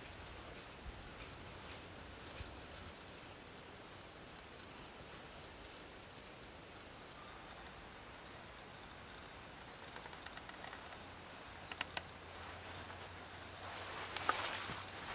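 Faint woodland birdsong: many short, high chirps repeating throughout. Near the end come a few clicks and a louder rustling.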